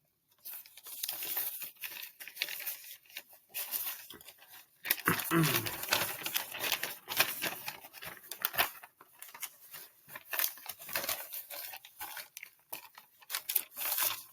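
Irregular rustling and crinkling handling noises close to the microphone, with a brief falling pitched sound about five seconds in.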